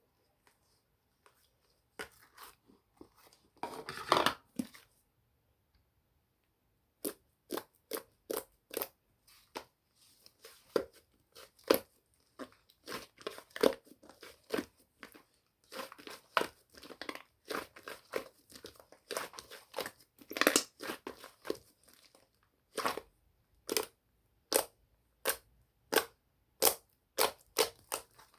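Hands pressing, poking and stretching a mixed slime, making a run of short sticky pops and crackles, with a longer crinkly squish about four seconds in.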